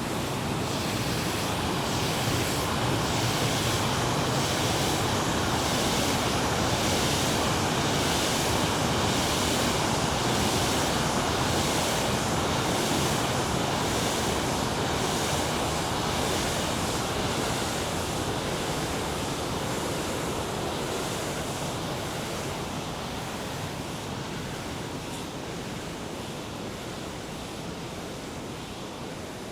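River water rushing over rocks, a steady loud wash of noise that is strongest in the first half and slowly fades over the rest.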